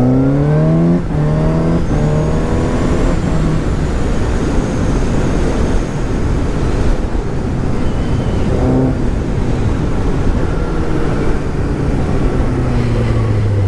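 Suzuki GSX-S750's inline-four engine accelerating hard, its note rising and dropping at two quick upshifts in the first two seconds, then running at speed under heavy wind noise on the microphone. Near the end the engine note falls as the throttle is closed.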